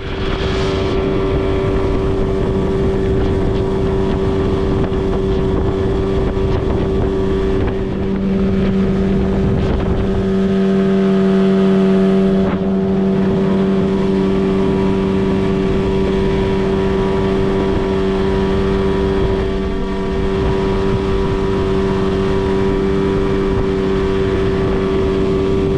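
Outboard motor running steadily under way on an inflatable PVC boat, with wind on the microphone. Its note deepens and grows stronger for a few seconds around the middle, then settles back.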